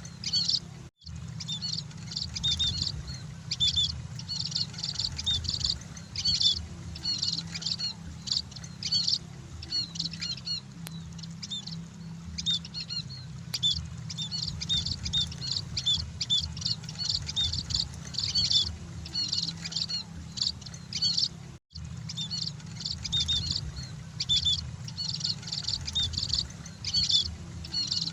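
A flock of emprit (munias) chirping continuously, with many short, high chirps overlapping over a steady low hum. The sound cuts out for an instant twice, about a second in and again about three quarters of the way through.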